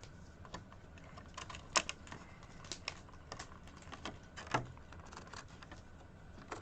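Irregular light clicks and rustles of plastic Heroclix miniatures and their packaging being handled, with a dozen or so sharp ticks at uneven intervals.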